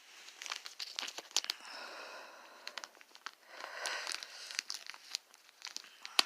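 Painter's tape being peeled off cardboard and crinkled, in scratchy stretches with many small clicks.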